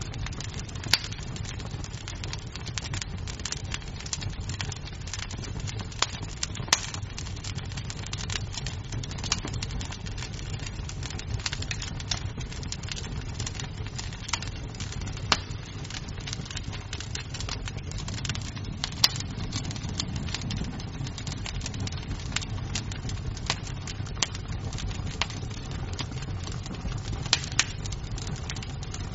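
Wood fire crackling: frequent sharp snaps and pops of burning wood, a few of them louder, over a steady low rumble of the flames.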